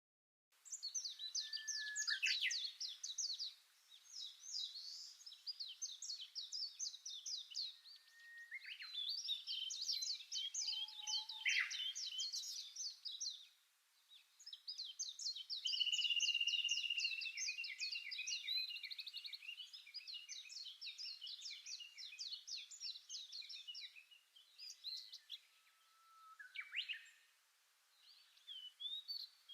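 Songbirds singing: rapid chattering trills and quick repeated notes from several birds overlapping, with a few downward-sliding whistles. The song thins out near the end.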